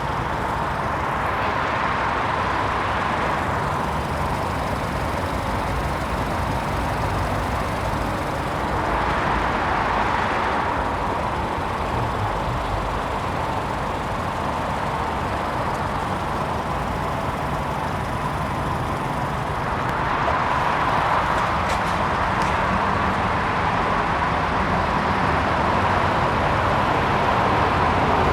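Steady vehicle and traffic noise that swells about three times, like vehicles passing by.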